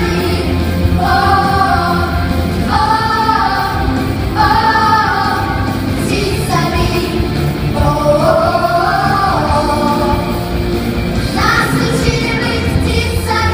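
Vocal song sung over instrumental accompaniment, with long held sung phrases of a second or more each.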